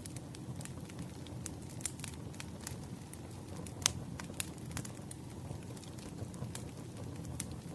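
Wood fire crackling: irregular small pops and snaps over a low, steady rumble of burning logs, with one sharper pop about four seconds in.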